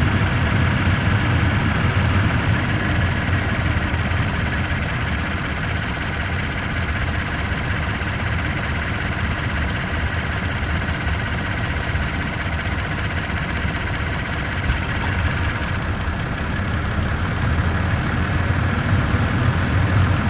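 Toyota Tacoma TRD Off-Road idling with a high-pitched ticking that stops about three-quarters of the way through, over a helicopter-like throbbing that runs on steadily.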